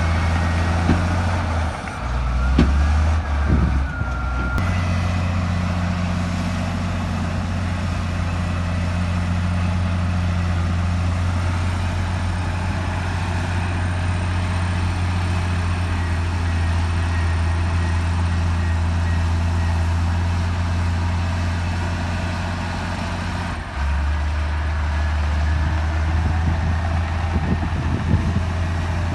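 Heavy diesel engine of earthmoving machinery running steadily under load. Its pitch drops and recovers about two to four seconds in, and it steps down again near the end. A faint high whine rises and falls early on.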